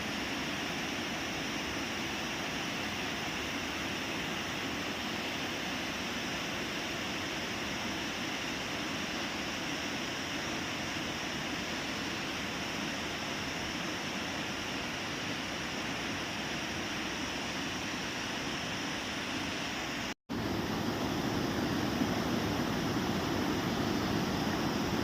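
Waterfall's steady rushing water. About twenty seconds in it cuts out for a split second and resumes a little louder and deeper.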